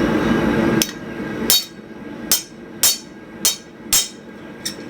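Hand hammer striking hot 25 mm x 3 mm flat steel on the anvil, six sharp blows about half a second apart, the last one lighter. These blows set in a shoulder at the anvil edge for tapering a hinge strap. Before the blows, a steady rushing noise stops suddenly about a second in.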